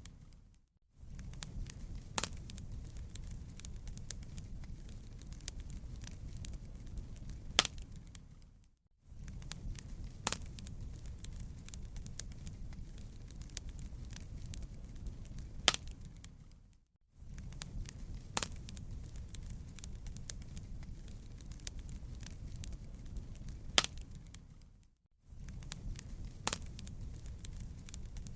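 Wood fire crackling in a fireplace: a steady low rumble with scattered sharp pops. It fades out briefly and comes back about every eight seconds.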